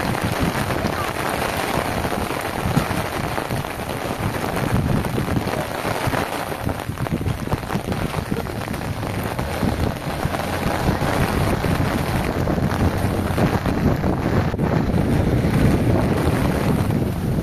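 Steady heavy rain falling, with wind rumbling on the microphone at times.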